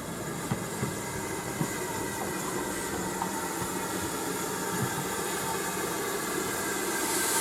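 Train running on the line, its sound slowly growing louder, with a few clicks along the way. A brief hiss comes near the end.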